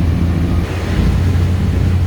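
A low, steady engine drone with wind noise on the microphone.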